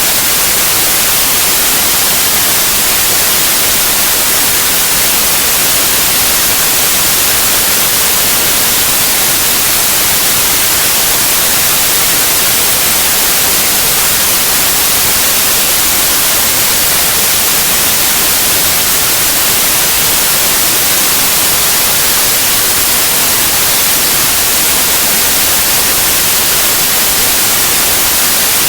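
Steady white noise: an even, loud hiss with no change in pitch or level.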